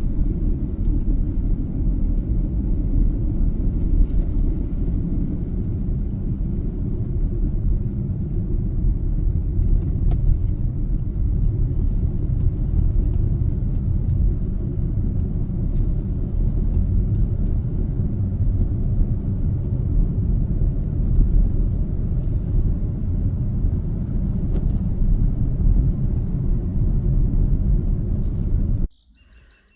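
A car driving, with a steady low rumble of road and engine noise that cuts off suddenly near the end.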